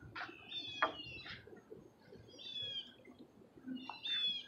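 Birds calling: short, high chirps in three groups, about a second and a half apart.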